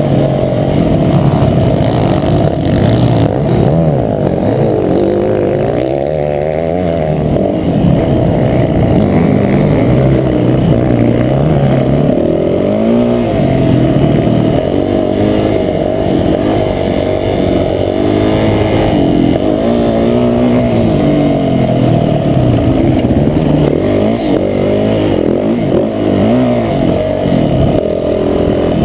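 Motocross bike engine, heard from on board, revving hard and easing off again and again as the rider accelerates and shuts off around the track. The sound is muffled, with little above the engine's low note.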